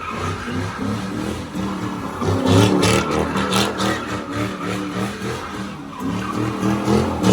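A vehicle's engine revving hard while its tyres skid and squeal, as in doing donuts.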